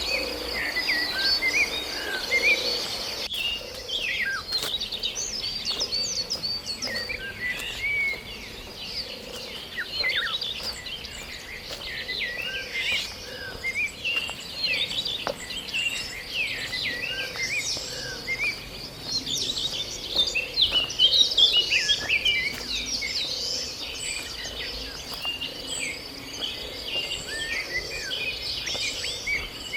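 Many forest birds chirping and calling in quick short notes, rising and falling, over a steady high insect buzz.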